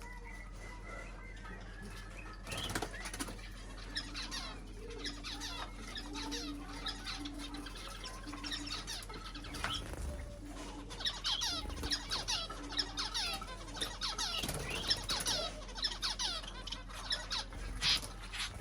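Small cage birds, finches and budgies, chirping busily with many rapid high calls, along with wing flutters and a few soft knocks.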